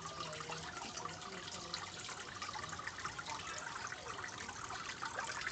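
Water trickling and splashing steadily from a small fountain that spills into a fish tank.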